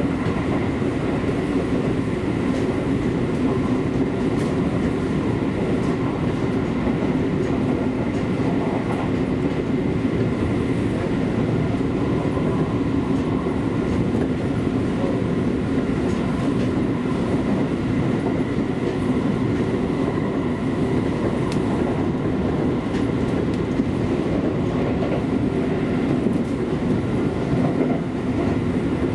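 Seibu Railway electric train running steadily along the track: a continuous rumble of wheels on rail with a steady hum over it and occasional faint clicks.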